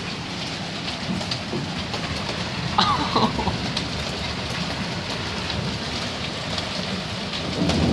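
Heavy rain mixed with large hailstones pelting hard surfaces: a dense steady hiss broken by many sharp ticks of hailstone impacts.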